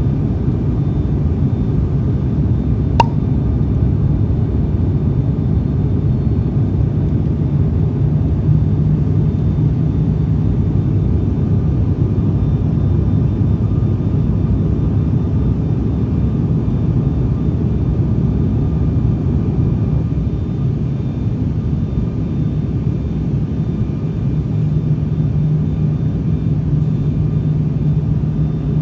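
Steady, loud low engine rumble with faint high whine tones over it, unchanging throughout; a single sharp click about three seconds in.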